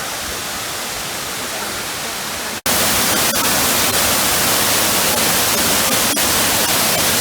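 Waterfall: a steady rush of falling water, which jumps louder after a cut about two and a half seconds in.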